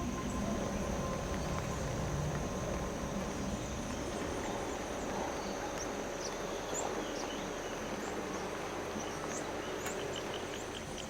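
Forest ambience: a steady high insect drone over a hiss, with scattered short bird chirps.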